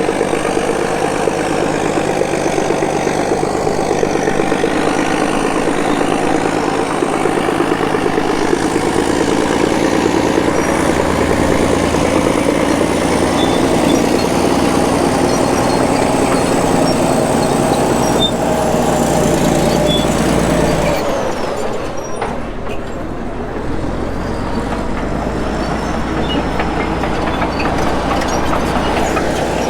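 Heavy diesel engine running steadily. About 21 seconds in the sound drops off abruptly, then carries on at a lower, steadier level.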